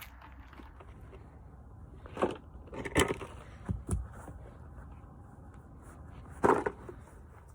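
A handful of scattered knocks and clicks over a low steady hum, the loudest about three seconds in and again near the end.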